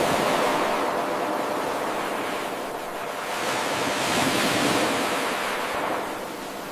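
Ocean surf: a wave washing in with a broad hiss, swelling at the start and again about four seconds in, easing off in between and toward the end.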